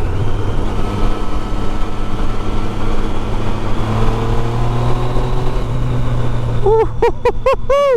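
Triumph Street Triple 675 inline three-cylinder engine running through a loud exhaust under steady riding, its pitch rising slowly as the bike gathers speed, with wind rushing over the microphone. In the last second a fast-wavering higher sound cuts in over it.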